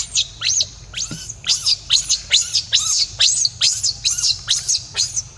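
Baby monkey calling over and over: short, high-pitched squeals, each falling in pitch, about three a second.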